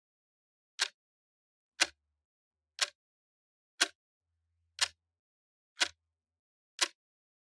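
Clock ticking steadily, one sharp dry tick every second with silence between the ticks.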